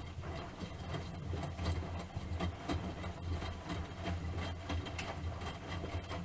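Miele Softtronic W3923 front-loading washing machine running: a steady low motor hum with irregular knocks and water noises.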